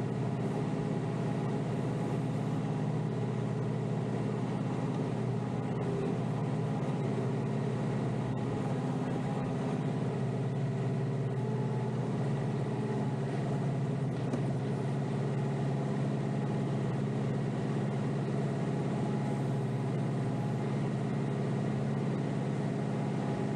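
Kioti DK5320SE tractor's diesel engine running steadily under load.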